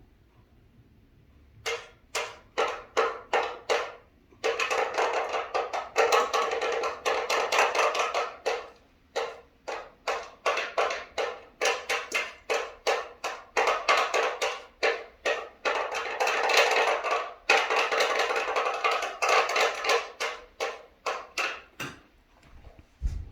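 Rapid, irregular tapping in runs of several strikes a second with a few short pauses, like a bird pecking and hammering at wood or bark.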